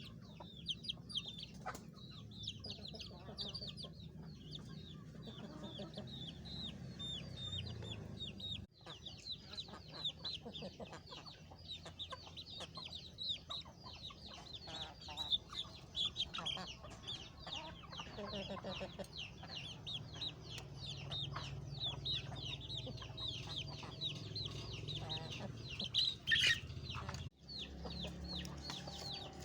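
A flock of chickens clucking and calling, with many short high calls overlapping continuously as they are fed rice.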